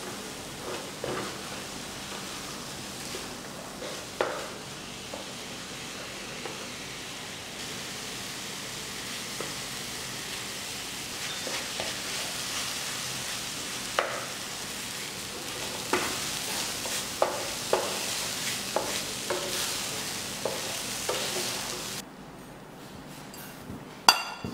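Riced cauliflower stir-frying in a nonstick frying pan: a steady sizzle, with a wooden spatula scraping and tapping the pan now and then. The sizzle stops about two seconds before the end, and a ceramic bowl clinks against a plate just after.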